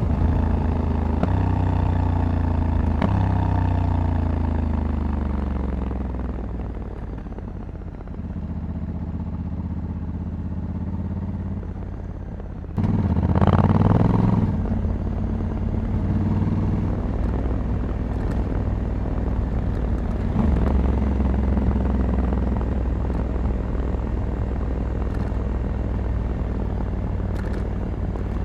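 Honda Africa Twin 1100's parallel-twin engine on the move, its pitch falling and stepping down in the first few seconds as the bike slows and changes gear. About halfway through it surges suddenly louder under acceleration, then settles into steady running.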